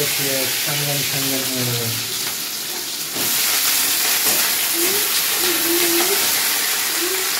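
Sliced vegetable pieces sizzling in hot oil with mustard seeds in a kadai and being stirred with a wooden spatula: a steady frying hiss that gets louder about three seconds in.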